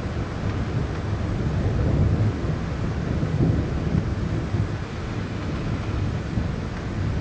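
Deep, bass-heavy rolling thunder from a close storm, rumbling continuously and swelling a couple of times midway, over steady rain.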